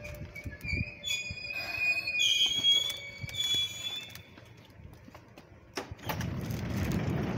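Seibu Railway train's wheels squealing on the rails: several high-pitched squealing tones that rise and hold for about four seconds, then die away. About six seconds in, a louder low rumbling noise sets in.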